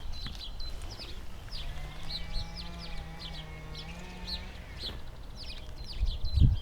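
A songbird singing a long run of short, quick chirping notes repeated at a steady pace. A held low drone with overtones sits under it for a few seconds in the middle, and low thumps from wind or handling come in near the end.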